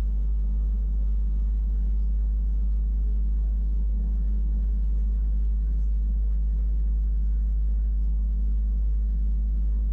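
Wengernalp Railway electric rack-railway train running, heard on board: a steady low rumble that does not change.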